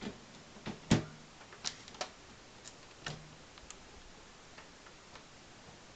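Samsung microwave's door-release key being pressed, its door latch clicking: one sharp click about a second in, then several lighter clicks over the next few seconds. The latch releases but the door does not swing open.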